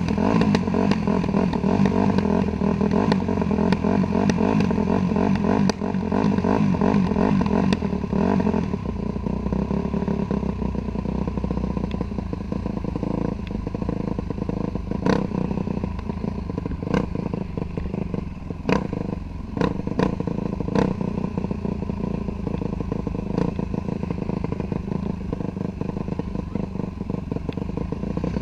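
Dirt bike engine running as it is ridden, pulling hard for the first eight seconds or so, then easing off and running lower. Sharp clicks and knocks come at scattered moments through the second half.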